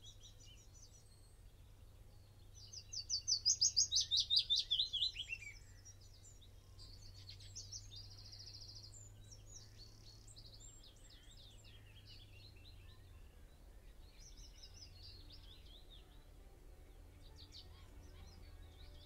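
Several songbirds singing in turn over a faint low steady hum. About three seconds in, one bird gives a loud song of rapid repeated notes that falls in pitch over a few seconds, and a short buzzy trill follows a few seconds later.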